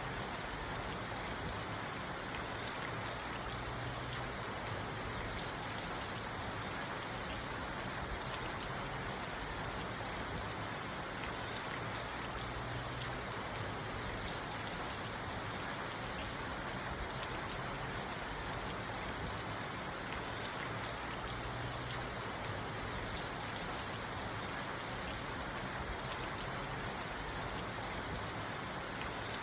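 Steady rain falling on a parked car, heard from inside the car's cabin.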